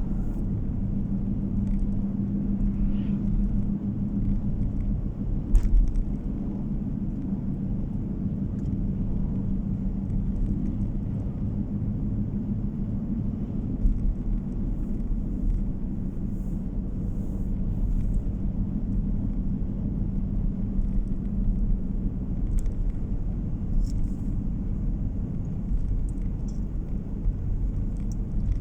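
A car driving along the road, heard from inside: a steady low rumble of tyre and engine noise with a constant drone. There is one brief thump about six seconds in.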